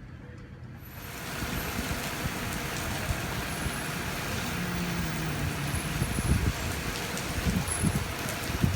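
Thunderstorm rain and wind: a steady hiss that starts suddenly about a second in, with gusts buffeting the microphone in the last couple of seconds.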